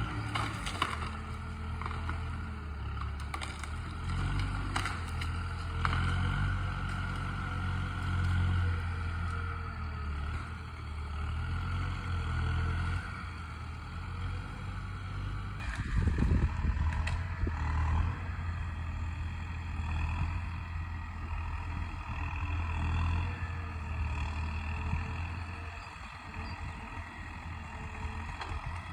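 Welte forestry skidder's diesel engine running, its low note shifting up and down a little. About sixteen seconds in comes a louder stretch with a few knocks.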